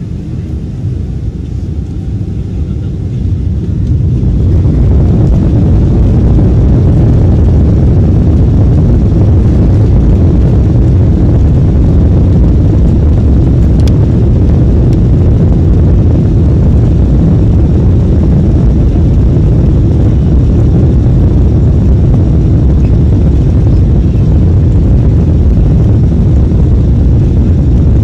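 Emirates airliner's jet engines spooling up to takeoff power, heard from inside the passenger cabin. The deep rumble swells over the first four seconds or so, then holds loud and steady.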